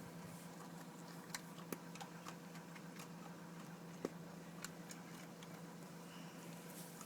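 Faint, irregular crunches and clicks of a dog chewing hard biscuit-bone dog treats, over a steady low hum.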